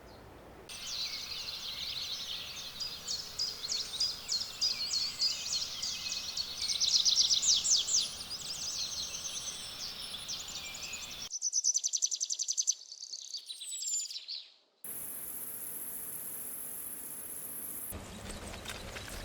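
Countryside ambience of insects chirring and birds calling, made of several clips cut together, so the sound changes abruptly a few times. A high steady insect buzz runs for a few seconds near the end.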